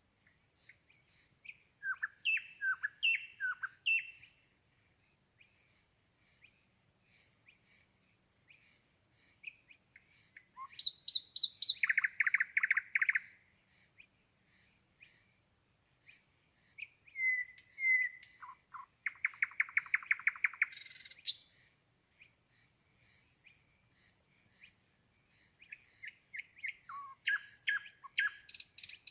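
A songbird singing at night: varied phrases separated by pauses, with slurred whistled notes, high piping notes and loud, fast rattling trills, twice among the loudest parts. Behind it runs a steady series of short, high ticks about twice a second.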